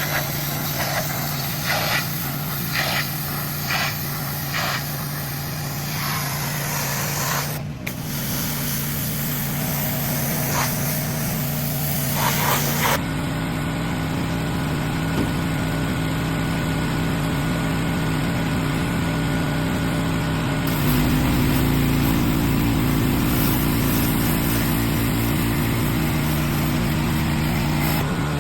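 An engine running steadily, with a hiss on top; the sound changes abruptly several times.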